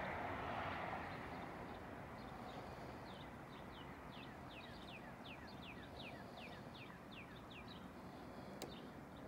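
A bird singing faintly: a run of about a dozen short whistled notes, each falling in pitch, roughly three a second, over a steady outdoor hiss. A single sharp click comes near the end.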